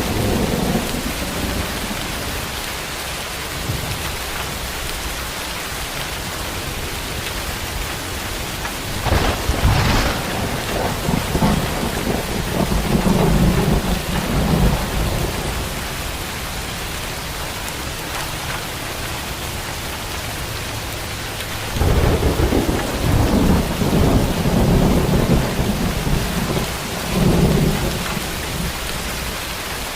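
Steady heavy rain with thunder: a sharp crack about a third of the way in that rumbles on for a few seconds, then another long low rumble starting past two thirds of the way through.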